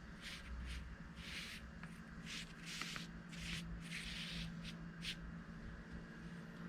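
Paintbrush stroking across paper: a run of about nine short swishes over the first five seconds, over a steady low hum.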